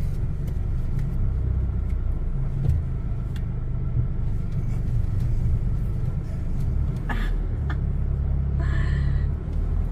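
A car driving along a town street, with a steady low rumble of engine and tyres.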